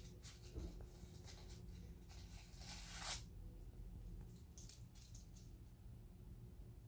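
A crinkle ball toy crackling and rustling as a kitten plays with it, in short crinkly spells, with the longest and loudest one about three seconds in, then only a few faint crinkles.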